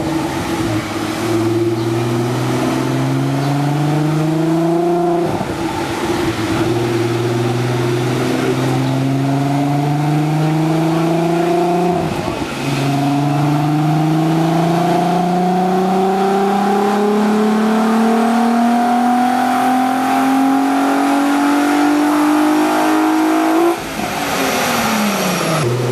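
Car engine under full throttle on a chassis dynamometer, climbing in pitch through the gears. There are two quick shifts, about five and twelve seconds in, then a long pull in the top gear. Near the end the throttle is lifted and the revs fall away.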